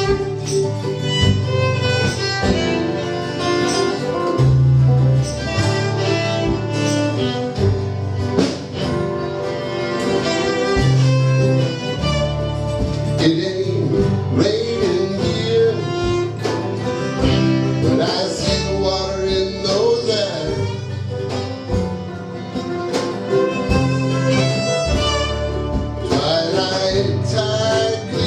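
A live bluegrass-country band playing an instrumental stretch, with fiddle carrying the melody over guitar and held bass notes that change every second or two.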